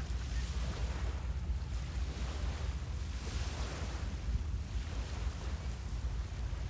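Wind buffeting the phone's microphone: a steady low rumble with an even hiss over it.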